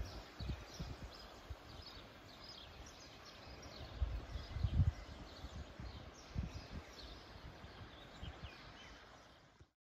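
Small birds chirping over and over, with low rumbles and thumps underneath; the sound cuts off abruptly near the end.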